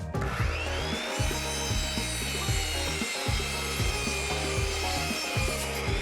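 Power saw cutting wood, its whine rising as it starts and then holding steady, with background music underneath.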